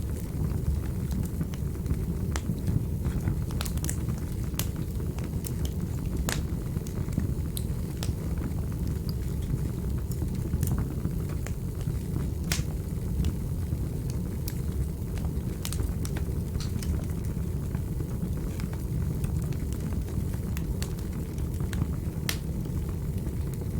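Wood fire burning in a fireplace: a steady low rumble of the flames with irregular sharp crackles and pops every second or two.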